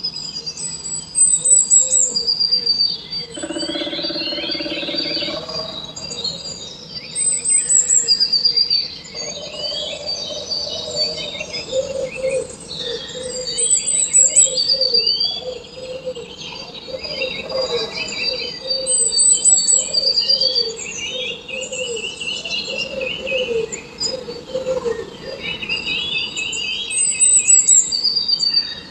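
A chorus of several birds chirping and singing, with quick high trills and chirps overlapping throughout and a lower call repeated over and over through the middle.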